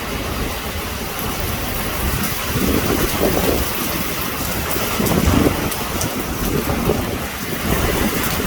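Extremely heavy rain pouring steadily in a severe thunderstorm, with low rumbling swells about three and five seconds in.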